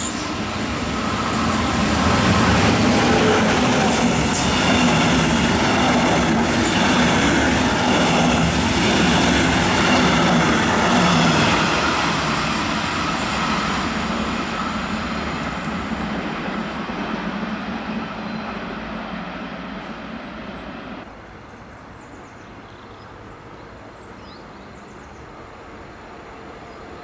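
A double-deck regional train running through the station without stopping: the noise of wheels on rails and passing coaches swells over the first two seconds, stays loud for about ten seconds, then fades as the train moves away. After a sudden cut about 21 seconds in, a quieter rumble of a second train approaching in the distance.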